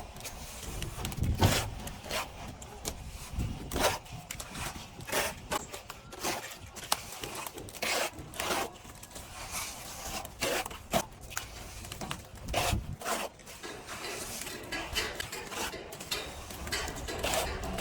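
Plastering tools scraping and rubbing plaster in irregular strokes, some louder than others.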